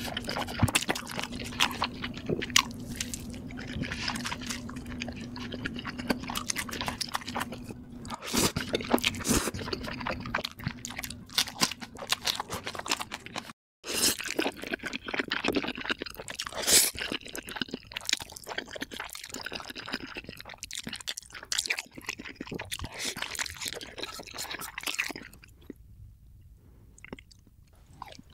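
Close-miked eating sounds: biting and chewing cheese-stuffed bread with stretchy melted cheese. After a brief cut about halfway through comes chewing of mouthfuls of black bean sauce noodles, a dense run of wet smacks and crunches.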